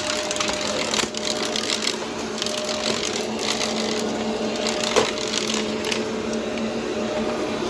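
Upright vacuum cleaner running with a steady motor hum and rush of air, its brushroll crunching and crackling through dry debris as it is pushed over the mess, with one louder crack about five seconds in.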